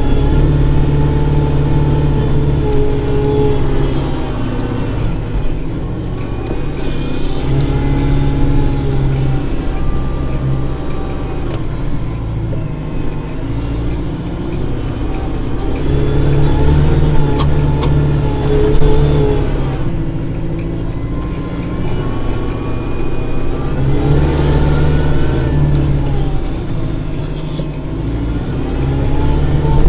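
Kubota tractor's diesel engine working, its pitch and loudness rising and falling in repeated cycles every several seconds as the load changes.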